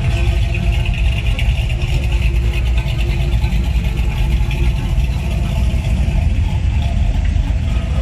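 Vehicle engine running steadily at idle, a deep continuous rumble.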